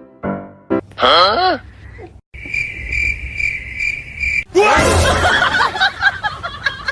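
A short swooping pitched sound, then about two seconds of steady, evenly pulsed cricket chirping, then a loud, busy mix of rising and falling cries.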